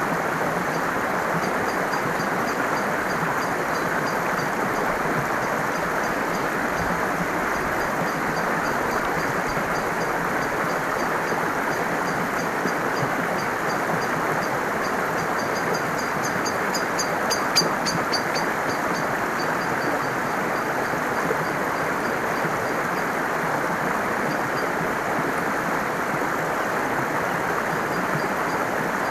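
Steady rush of flowing water, with small birds chirping in quick repeated notes over it, the chirping briefly louder a little past halfway.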